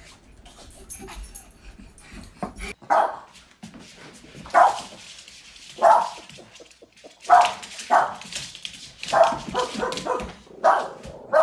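A dog barking: a run of short single barks, about one every second or so, starting about three seconds in.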